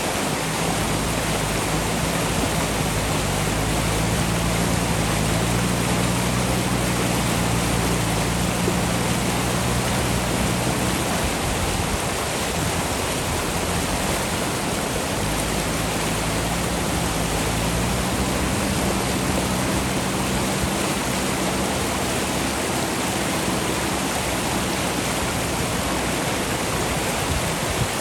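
Fast-flowing river rushing steadily, with a JCB backhoe loader's diesel engine running under it. The engine's pitch climbs a few seconds in, fades near the middle, then comes back and climbs again about two-thirds of the way through.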